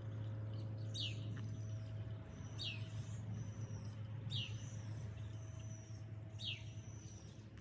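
A bird calling over and over, a short falling call about every one and a half to two seconds, four times, over a steady low hum.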